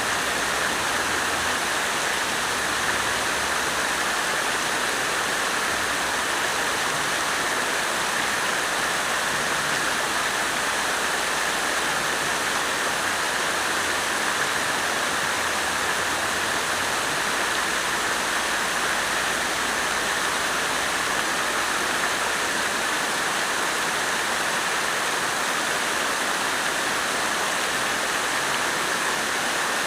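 Water fountain splashing steadily, water falling continuously into its basin.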